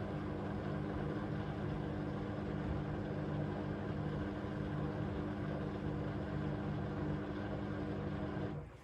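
AEG LR8FL160EX front-loading washing machine running on its cycle: a steady machine hum with a constant drone, which cuts off abruptly near the end.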